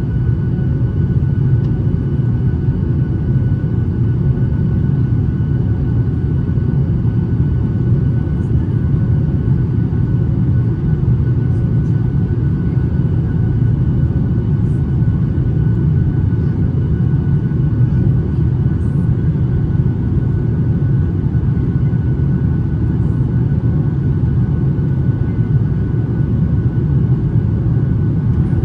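Cabin noise inside a Boeing 737-800 in flight: a steady low rumble of airflow and CFM56 turbofan engines, with faint steady high engine tones above it.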